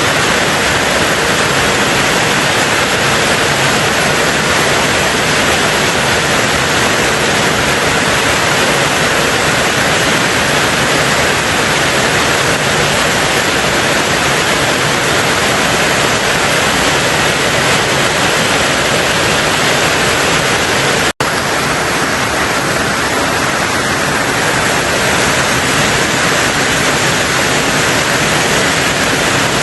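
Steady heavy rain drumming on a tin roof, a dense even hiss, with a split-second dropout about two-thirds of the way through.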